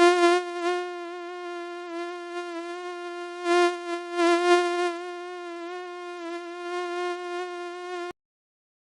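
Mosquito whine: a steady, high buzzing tone with many overtones that wavers slightly and swells louder and softer, then cuts off suddenly about eight seconds in.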